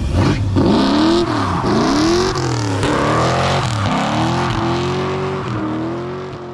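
Car engine revved hard several times, its pitch climbing and dropping over and over, with a hiss above it; the sound fades out near the end.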